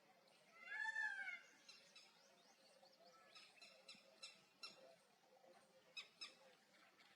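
Wild birds calling: one loud arched call about a second in, then a scatter of short, sharp chirps.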